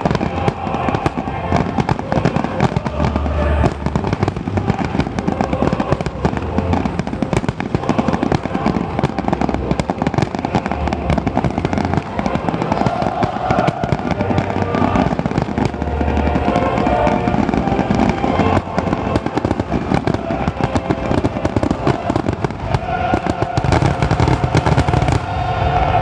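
Fireworks display: a dense, continuous crackle of bursting shells and stars, with repeated deep booms a few seconds apart.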